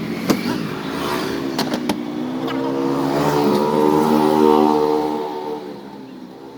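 A motor vehicle's engine passing by: its running note swells to a peak about four seconds in and fades away, with a few sharp clicks early on.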